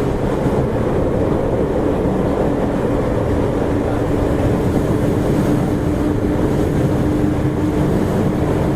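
Interior running noise of a Toei Shinjuku Line subway car at speed in the tunnel: a steady, dense rumble of wheels on rail, with a steady hum running through it.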